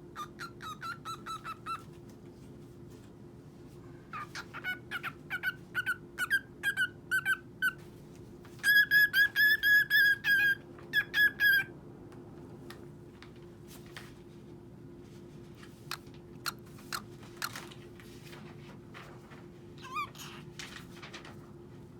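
Cockatiel chirping in runs of short, repeated calls, loudest in a fast run about nine to twelve seconds in, then only a few scattered short clicks and one more call near the end.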